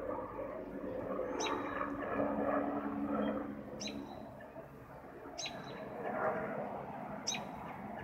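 A small bird gives a short, high chirp four times, about every two seconds, over a steady low background rumble.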